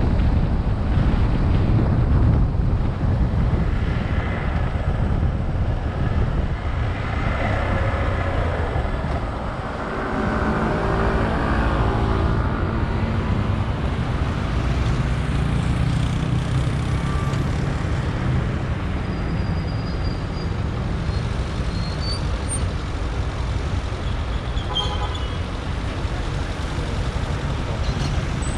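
Street traffic heard from a moving motorcycle: a steady low rumble of engines and road noise with wind on the microphone, and a passing engine note that rises and falls partway through.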